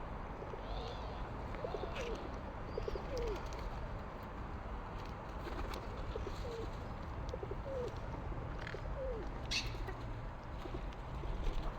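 Low cooing of a pigeon or dove, given in two series of short falling notes, about two seconds in and again from about six to nine seconds in, over a steady low rumble.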